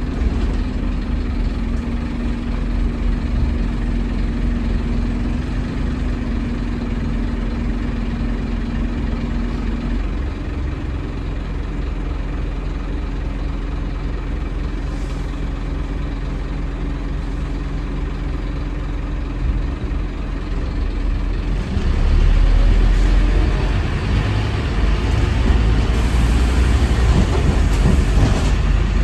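Scania N230UD double-decker bus's five-cylinder diesel engine running steadily at idle, then louder and working harder from about three-quarters of the way in.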